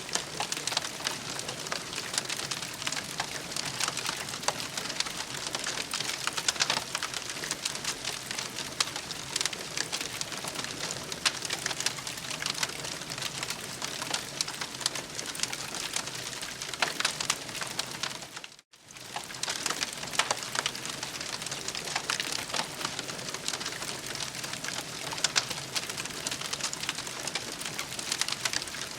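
Campfire crackling: a dense, steady patter of small crackles and pops from burning wood, cutting out for a split second about two-thirds of the way through.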